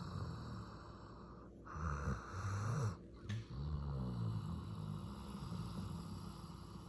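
A sleeping Doberman snoring: low, fluttering snores on its breaths, loudest in two stretches about two and four seconds in.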